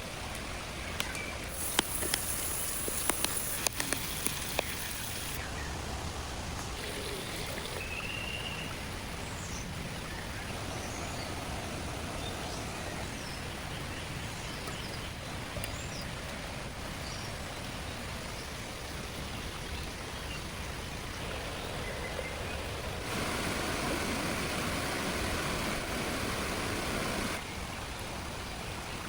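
Steady outdoor ambience of running water, with scattered short bird chirps. A quick run of sharp clicks comes about two seconds in, and the rushing noise grows louder for a few seconds near the end.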